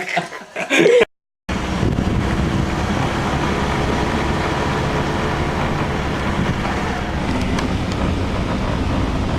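Steady low rumble of a moving vehicle with wind noise on the microphone, starting after a brief snatch of voice and a cut about a second in.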